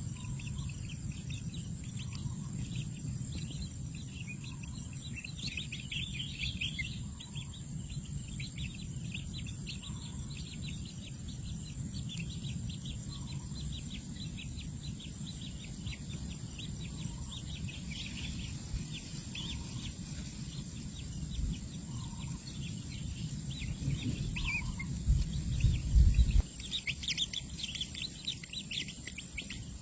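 Many small birds chirping and twittering at once, a dense stream of short high chirps, over a steady high-pitched tone and a low rumble. The rumble swells loudly for a moment about 25 seconds in.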